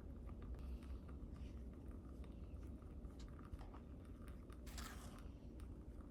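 Light clicks and scraping of kitchen utensils during baking prep, with a brief swishing noise about five seconds in.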